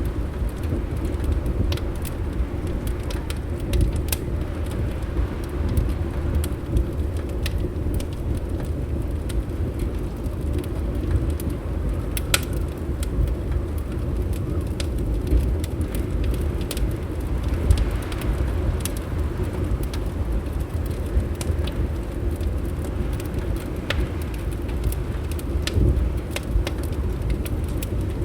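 Wood fire crackling, with scattered sharp pops over a steady low rumble of wind.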